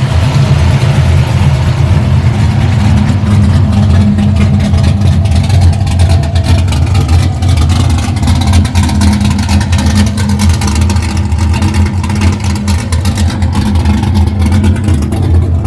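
Cammed LS1 V8 of an LS-swapped Mazda RX-8 drift car idling steadily at operating temperature, running healthy.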